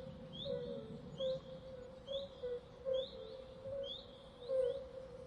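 Birds chirping: short, rising chirps repeated about once a second, over a low steady tone.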